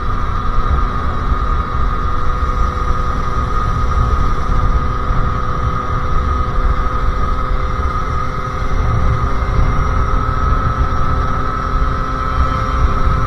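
Sherco SM-R 50cc two-stroke supermoto engine running under way through its aftermarket KRM exhaust. It holds a steady high pitch, dipping slightly about two-thirds through and climbing a little again near the end.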